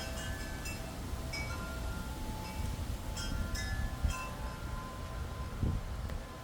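Wind chimes ringing irregularly, several different pitches struck at random moments, over a low rumble of wind on the microphone.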